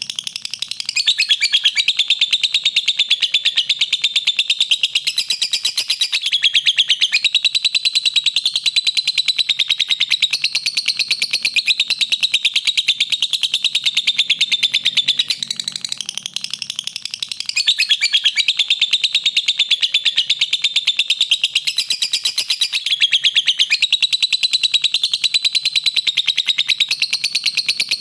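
Lovebird song: a long, very fast, unbroken chattering trill. It eases off briefly near the start and again about halfway through, then picks up again.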